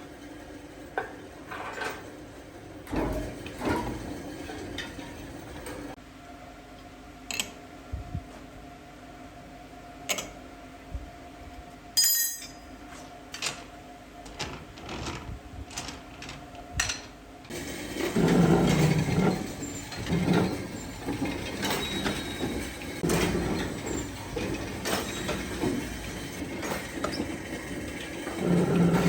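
A factory machine being set running: scattered clicks and metal knocks, then a steady hum, and from about two-thirds of the way in a louder running sound that swells and fades about every second and a half.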